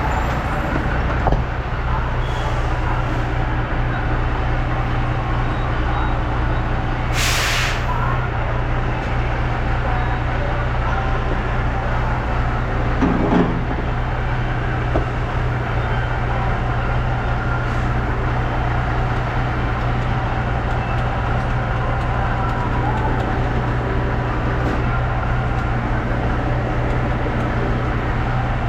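Semi truck's diesel engine running steadily, with a short burst of hissing air from the truck's air system about seven seconds in.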